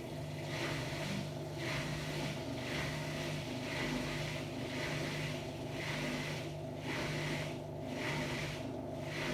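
Hotpoint-Ariston Aqualtis washer-dryer with its drum turning through a wash. A steady hum from the brushless inverter motor runs under a swish of wet laundry that rises and falls about once a second.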